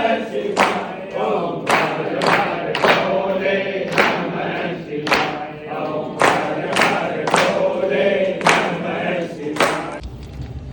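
A group of voices singing together, with a sharp percussive strike about once a second, stopping shortly before the end.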